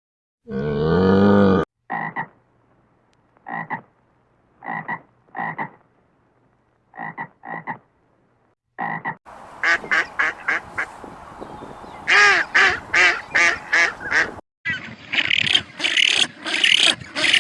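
Frog croaking: short croaks, mostly in pairs, that then speed up into a quick run of about three or four a second. A denser stretch of croaking follows after a break near the end.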